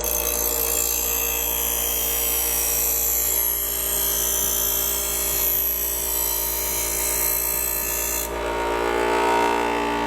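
A power tool working, with a loud high hiss that cuts off about eight seconds in, over a steady tone.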